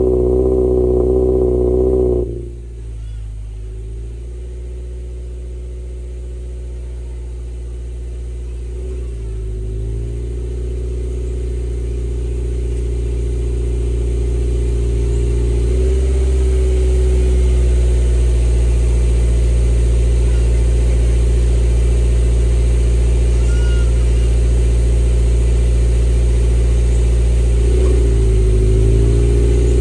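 Subaru XV GT's flat-four boxer engine running through its upgraded aftermarket exhaust, a steady drone. The revs drop sharply about two seconds in, then the sound grows gradually louder and holds, with a brief waver in pitch three times.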